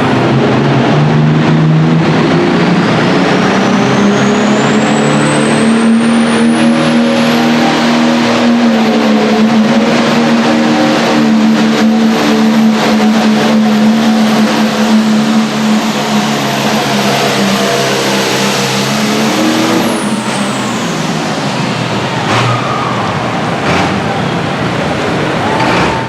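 Hot farm pulling tractor's turbocharged diesel engine running at full power down the track, with a high turbo whistle that climbs over the first several seconds and then holds. About 20 seconds in, the engine and whistle drop away as the pull ends.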